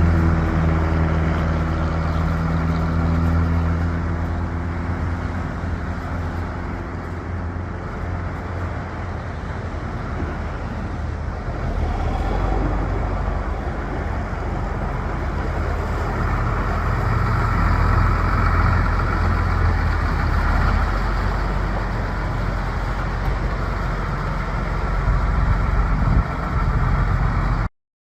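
1993 John Deere 8770 articulated four-wheel-drive tractor's diesel engine running steadily. A low, even hum in the first half turns rougher and noisier, and the sound cuts off suddenly near the end.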